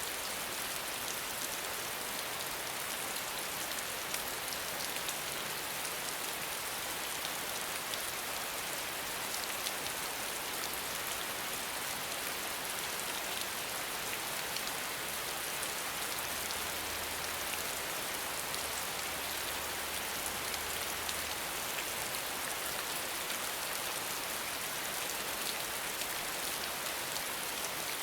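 Steady rain falling, a continuous hiss with many fine drop patters on a surface.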